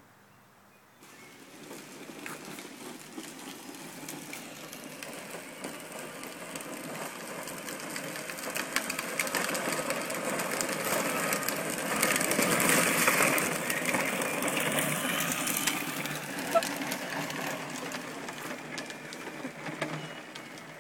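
Electric motor and gearbox of a battery-powered ride-on toy vehicle whirring as it drives, its plastic wheels crackling over the ground. It starts about a second in, grows louder to a peak around the middle, then fades as it moves away.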